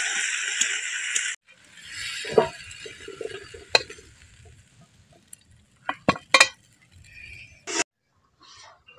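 Spring onion stalks sizzling in hot oil in a metal karai, the hiss cutting off sharply about a second and a half in and coming back quieter. A flat steel spatula then scrapes and clinks on the karai and a steel plate, with several sharp clinks, as the fried stalks are tipped out.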